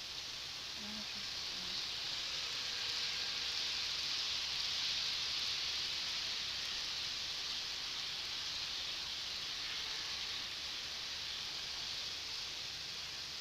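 Model train running along the layout track: a steady, even rushing hiss from wheels and motor with no distinct clicks, swelling slightly about two seconds in and fading right at the end.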